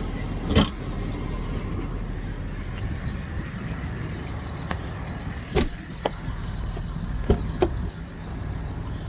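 Land Rover Discovery 3's engine idling steadily with the air conditioning running. Several short knocks and clicks from the driver's seat being moved forwards punctuate it.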